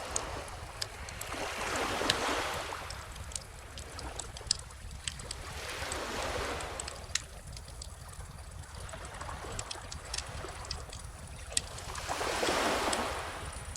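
Wood fire crackling with frequent sharp pops over small ocean waves washing ashore, three gentle swells rising and falling a few seconds apart.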